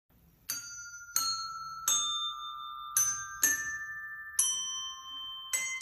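A short melody of seven struck, bell-like mallet notes, glockenspiel or chime-like, each ringing on briefly before the next, moving mostly downward in pitch.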